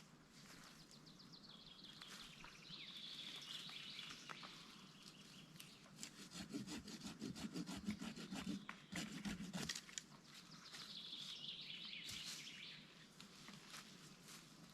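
Faint hand sawing through wood, a run of strokes about midway. Birds sing before and after the sawing.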